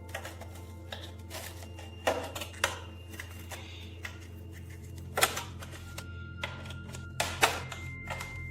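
Irregular sharp clicks and knocks, a few leaving a brief ringing tone, over a steady low hum.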